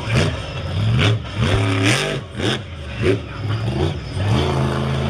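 Monster truck engine revving hard again and again, its pitch climbing with each rev, with several short loud noisy bursts in between.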